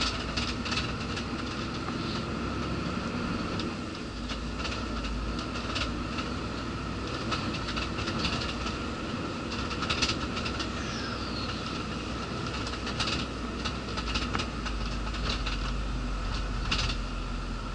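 Scania lorry engine running at low speed under a full load, with irregular clicks and rattles from the cab.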